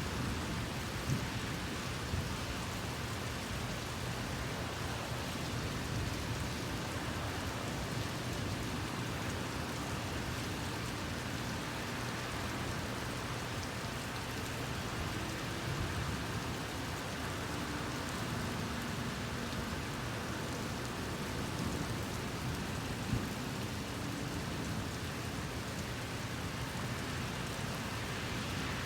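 Steady rain, an even hiss, with a few sharp taps of drops standing out about a second in, again at two seconds, and once more near the end.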